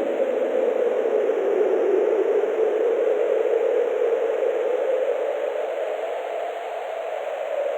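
Wind blowing steadily, a whooshing howl whose pitch drifts slowly upward and which eases off slightly near the end.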